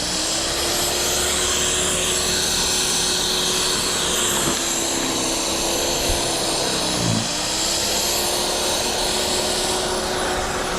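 Snowblower engine running steadily at full throttle, its pitch dipping briefly about seven seconds in as it bogs under a load of snow, then recovering.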